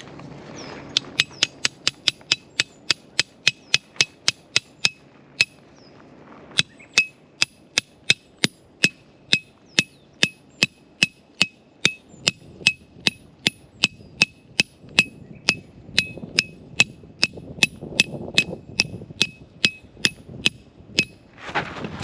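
A tent peg being hammered into the ground: a steady run of sharp, ringing strikes about three a second, with one short pause about six seconds in.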